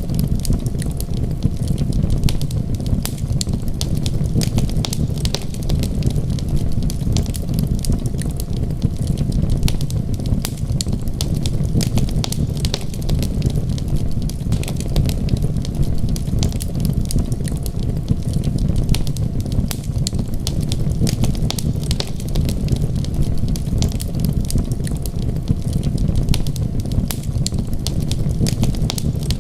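Wood fire crackling in a fireplace, with many small, irregular pops and snaps over a steady low rumble.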